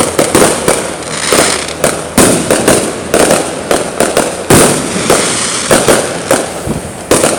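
Aerial fireworks going off in a long run: sharp bangs at irregular intervals, a few much louder than the rest, with constant crackling between them.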